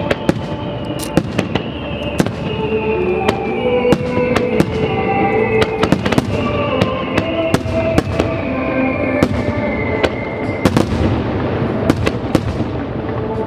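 Fireworks bursting in quick succession, many sharp bangs and crackles, over music played along with the show.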